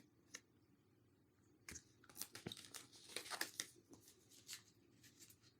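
Near silence, with faint scattered rustles and light clicks of tarot cards being handled, mostly between about two and four seconds in.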